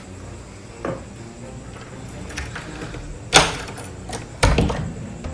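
A few sharp knocks and clunks of household objects, the loudest about three and a half seconds in, with another shortly before the end.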